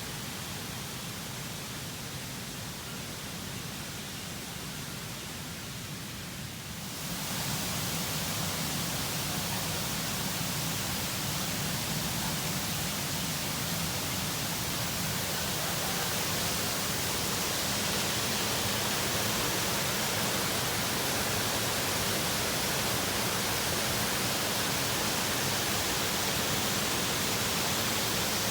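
Steady rush of a waterfall and stream, an even hiss of falling water that turns louder and fuller about seven seconds in.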